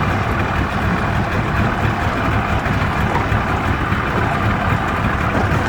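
Steady motor running, an even, unbroken drone with most of its weight low down.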